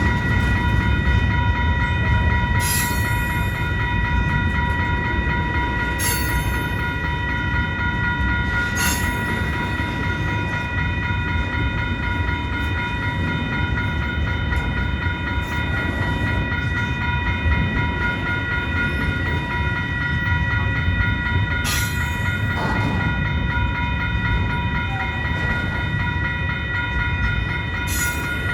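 CN mixed freight train's cars rolling past with a steady low rumble, with a set of steady high tones running throughout. Five short, sharp metallic clanks or squeals come from the wheels and couplers, at about 3, 6, 9, 22 and 28 seconds in.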